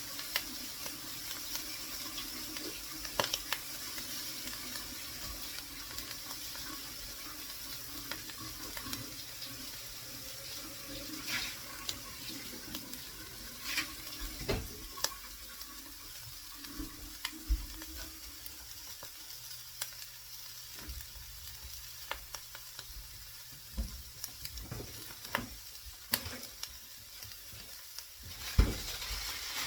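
Omelette of potato, mushroom, onion and ham sizzling steadily in a frying pan, with scattered sharp clicks and knocks, the loudest near the end.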